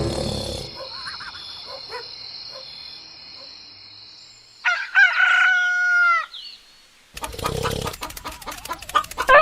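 A rooster crows once, about halfway through: a single long call that drops in pitch as it ends. A rapid run of clicking follows near the end.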